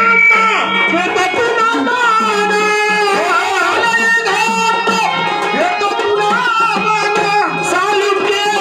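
Marathi shahiri folk music: a dholki hand drum playing a rhythm under singing and melody instruments.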